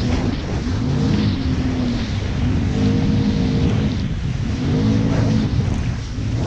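Jet ski engine running under throttle, its pitch rising and falling several times as the rider works the throttle, over a rushing noise of wind and water.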